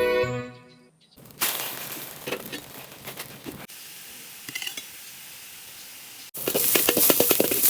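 Background music fades out, then food sizzles and crackles in a hot pan across a few abruptly cut segments. A sizzle starts about a second in, a quieter steady hiss follows, and louder, rapid crackling sets in near the end.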